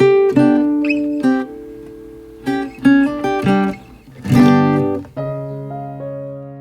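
Background music played on acoustic guitar: plucked and strummed chords, ending in a long chord that rings out and fades over the last second or so.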